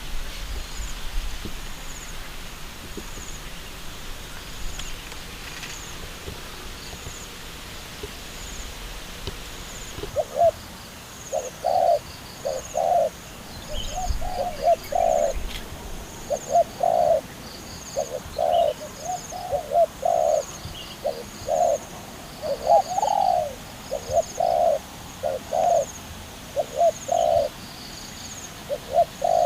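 Doves cooing in a run of short, low notes that begins about a third of the way in and repeats roughly once or twice a second, over faint high-pitched chirping.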